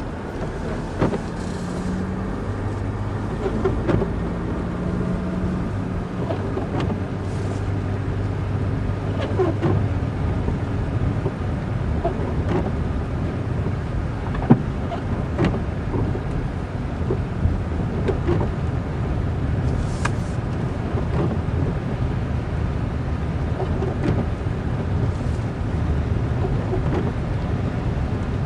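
A vehicle driving along a road: steady engine and road noise, the engine note shifting in pitch in the first few seconds, with many short knocks and clicks scattered throughout.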